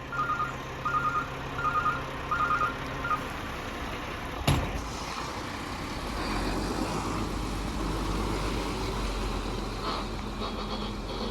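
A repeating electronic beep, short pulses about every 0.7 seconds, for the first three seconds. Then a single sharp knock, and after it a roll-off truck's diesel engine running steadily.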